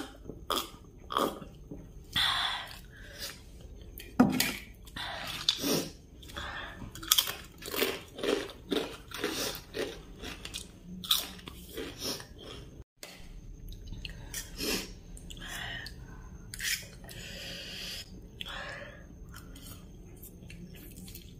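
Close mouth sounds of people chewing and munching a mouthful of spicy noodles, in short irregular bouts.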